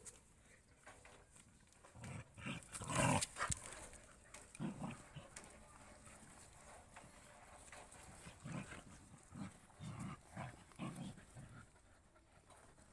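Dogs playing together, giving short, low vocal sounds in separate bursts, loudest about three seconds in, with another run of them in the second half.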